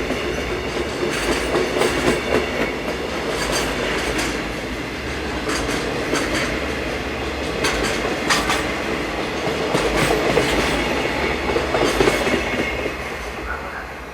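Freight train rolling past, its wagon wheels clacking over the rail joints in a steady rumble that fades as the train clears near the end.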